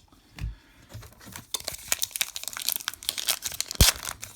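Foil wrapper of a baseball card pack crinkling and tearing as the pack is opened, with a thump about half a second in and a sharp snap near the end.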